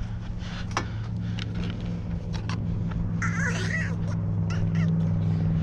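Engine running steadily, growing slowly louder.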